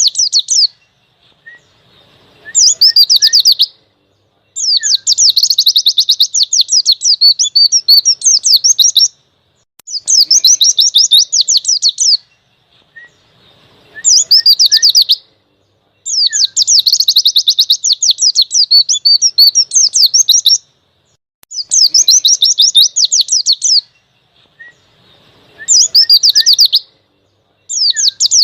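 Pleci (white-eye) singing in the loud, fast ngalas style: repeated bursts of rapid high chirps and trills, each one to four seconds long, with short pauses between them holding a few soft notes.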